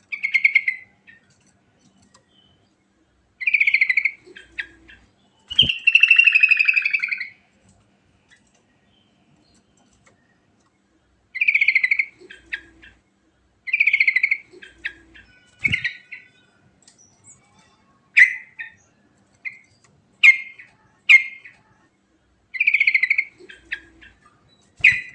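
Yellow-vented bulbul (trucukan) singing: short, rapid, bubbly phrases of about a second each, repeated every couple of seconds with pauses between, one longer phrase about six seconds in, and a few short sharp notes in the second half.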